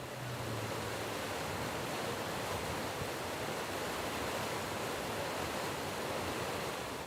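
Sea waves washing, a steady, even rushing.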